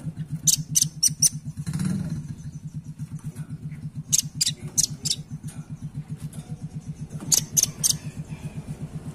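Velvet-fronted nuthatch giving three bursts of about four sharp, high notes each, over a steady low pulsing hum of about eight beats a second.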